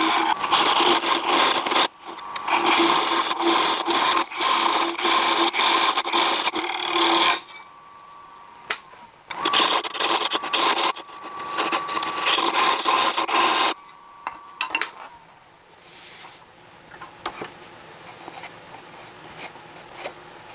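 Round-nose scraper hollowing the inside of a wooden vase blank spinning on a lathe at about 1100 RPM: a harsh scraping in long spells with short pauses, a steady ringing tone under each cut. The cutting stops about 14 seconds in, the lathe's hum fades soon after, and a few light knocks follow.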